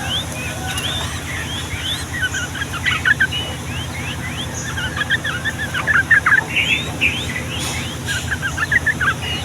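Yellow-vented bulbul singing a long, rapid run of short chattering notes, in a dense tumble that thickens about halfway through, over a steady low hum.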